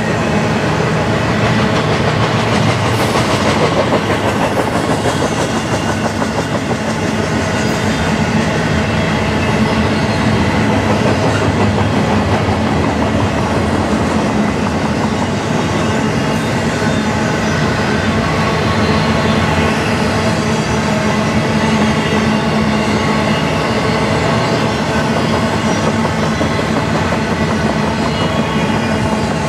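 A freight train's double-stack container well cars rolling past: a steady, loud rumble and clatter of steel wheels on the rail, with a faint falling whine about three seconds in.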